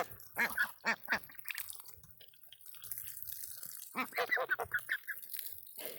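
Water from a garden hose splashing and dripping over ducks and geese in scattered strokes, busier in the first second and again from about four seconds in, with a near-quiet lull between.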